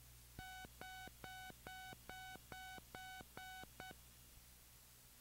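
Cockpit electronic alert tone heard over the intercom: about nine short identical beeps, a little over two a second, the last one cut short.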